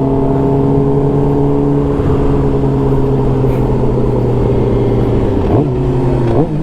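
Sport motorcycle engine running at a steady cruise, heard from the rider's helmet. The note eases slightly, then dips and climbs again near the end as the rider changes speed.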